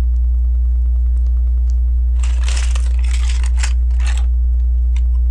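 Hands rummaging among LEGO pieces: crinkly plastic rustling for about two seconds in the middle, with a few light clicks. Steady low electrical hum underneath.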